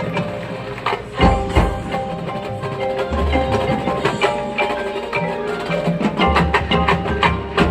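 Marching band music led by percussion: many quick struck notes from mallet instruments and wood-block-like clicks over held pitched tones, with heavy low bass notes coming in a few times.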